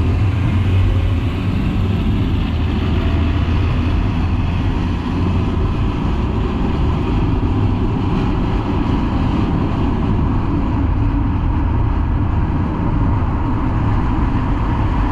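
Steady road and engine noise of a car driving at speed, heard from inside the cabin as a constant low rumble with tyre hiss.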